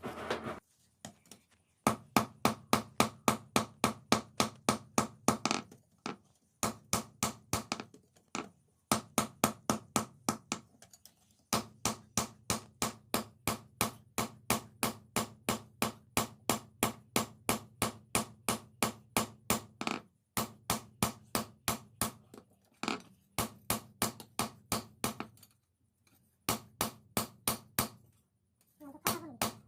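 Hammer blows on steel at an anvil, as in forging a knife blade: fast, even strikes, about five a second, in runs of a few seconds with short pauses between them.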